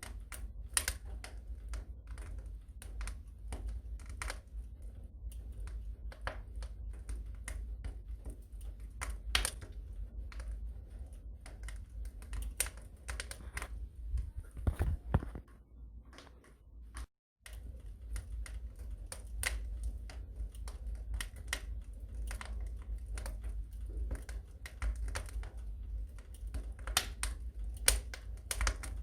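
Wood fire burning in a fireplace, crackling with irregular sharp pops over a low rumble of the flames. The sound drops out for a moment a little past the middle.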